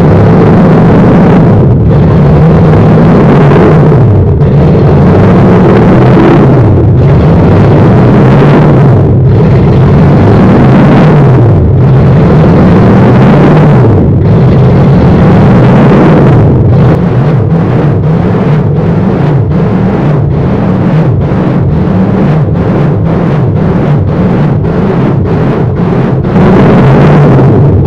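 Toyota 1UZ-FE V8 engine running while the car is driven, very loud, its revs rising and falling again and again with short drops in between. In the second half the sound is a little quieter and choppy, with many quick dips.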